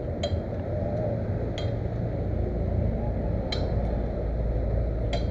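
Metal tools clinking against engine parts while an alternator is bolted on, four separate sharp clinks a second or two apart, over a steady low rumble.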